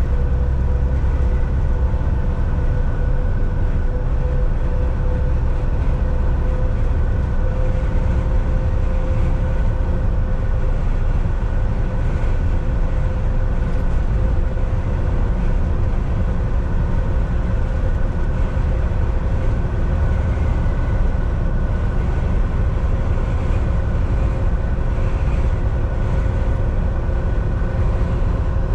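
Volvo VNL 760 semi truck driving steadily on the highway, heard from inside the cab: a constant low engine and road rumble with a steady whine over it.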